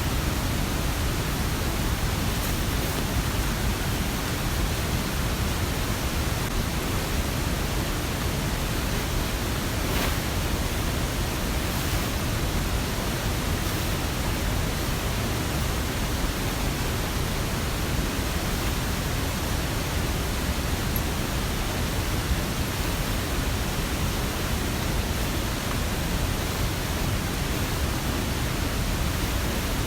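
Steady rushing water noise from rain and a mountain stream, even throughout, with a few faint ticks.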